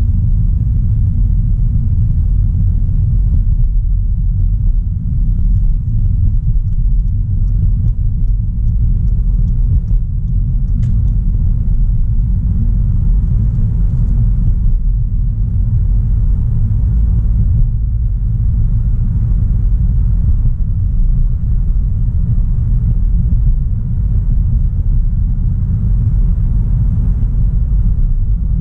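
A 2016 Audi A3 Sportback 1.4 TFSI under way: a steady low rumble of road and engine noise. A few faint ticks come about two a second for several seconds near the middle.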